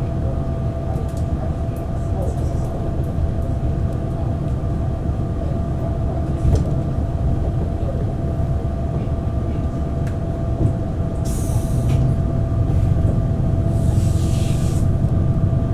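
Inside the passenger cabin of a Taiwan Railways DR3000 diesel multiple unit in motion: a steady low rumble of the running gear and underfloor diesel engine with a steady whine on top. Two short hisses about eleven and fourteen seconds in, and the sound grows slightly louder toward the end.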